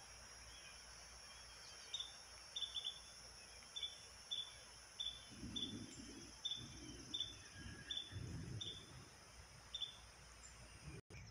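A bird calls in short, high, repeated chirps, about one a second, over a steady high drone of insects. A low rumble comes in about five seconds in and fades about three seconds later.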